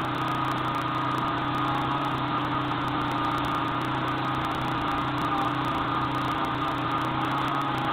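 A small motor running steadily with a constant hum and whirring noise.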